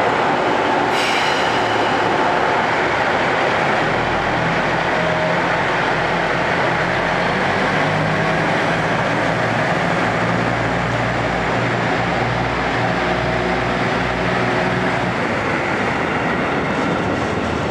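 Steady mechanical hum and hiss of electric trains standing at a station platform. A low hum grows in the middle and fades again, and there is one brief sharp sound about a second in.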